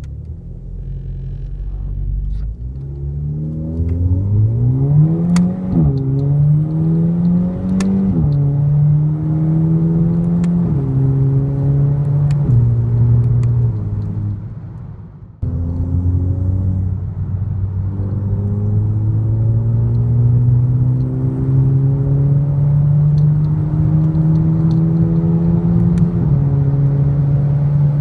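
Golf V GTI's 2.0 TSI turbo four-cylinder under full-throttle acceleration through a catless downpipe and Bull-X axle-back exhaust. Its pitch climbs and drops back at quick DSG upshifts about five times in the first half. After a sudden break, it pulls slowly upward in a high gear, with one more upshift near the end.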